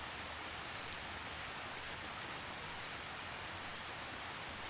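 Steady light rain: an even hiss of drizzle with a faint drop tick now and then.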